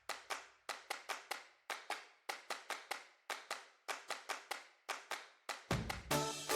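Hand claps in a quick, uneven rhythm, about four a second, with silence between. Music with a bass line comes in near the end.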